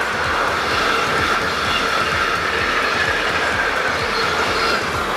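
Enclosed double-deck car-transporter freight wagons rolling past, a steady loud rumble of wheels on rail with a constant high squeal running through it.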